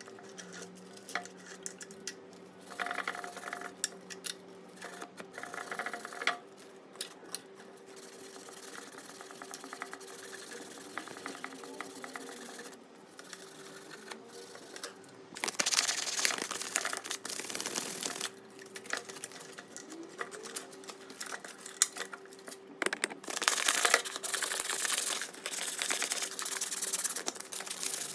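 A small electric power tool's motor running steadily, with stretches of harsh, hissing abrasion where it works the rusty metal of the chisel, louder about halfway through and again near the end.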